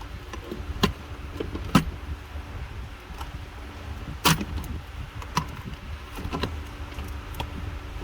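Scattered sharp clicks and knocks of hand tools and plastic trim parts during dashboard disassembly, about six in all, the loudest a ringing metallic knock about four seconds in, over a steady low rumble.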